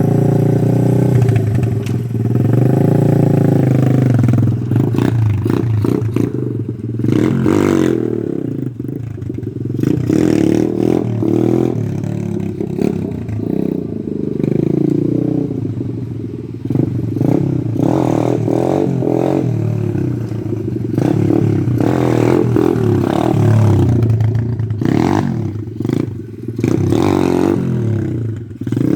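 Pit bike engine revving up and dropping back again and again, as in repeated wheelie attempts, with scattered clatter and knocks throughout.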